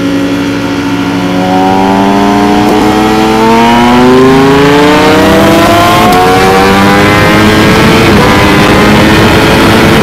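Ducati Panigale V4 Speciale's V4 engine accelerating hard at full throttle, its pitch climbing steadily, with a short drop about eight seconds in as it shifts up and starts climbing again.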